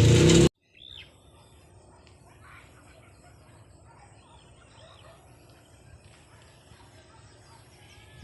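A loud half-second of voice cuts off abruptly. After it, faint scattered bird calls and chirps over quiet background noise.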